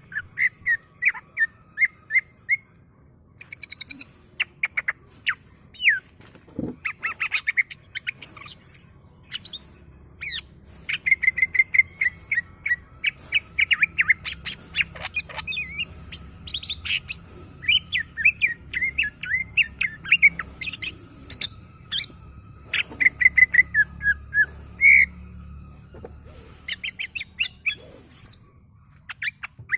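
Green leafbird (cucak ijo) twittering in quick runs of short sharp chirps and whistles, in bursts with brief pauses between them.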